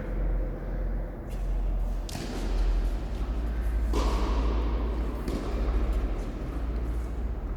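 Tennis ball struck by rackets during a rally: four sharp hits spaced one to two seconds apart, over a steady low rumble.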